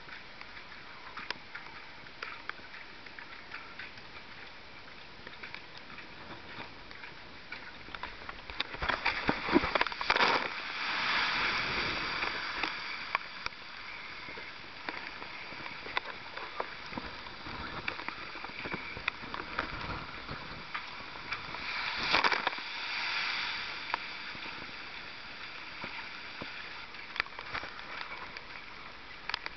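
Sea waves breaking against a breakwater: two big crashes with a rush of spray, about nine seconds in and again about twenty-two seconds in, each fading over a few seconds, with a steady wash of water between.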